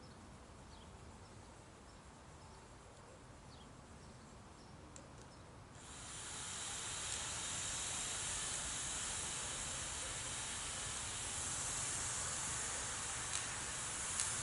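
Steam hissing from a Nissan Primera P10: a steady hiss that starts suddenly about six seconds in. Before it, a few faint bird chirps.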